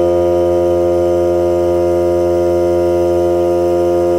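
Hart cordless battery-powered air compressor running steadily with an even, pitched hum, pumping up its emptied tank.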